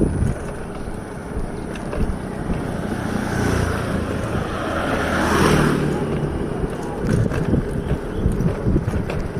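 Wind rumbling on the microphone during a bicycle ride, with a steady low rumble that swells to a peak about five and a half seconds in, as of a vehicle passing.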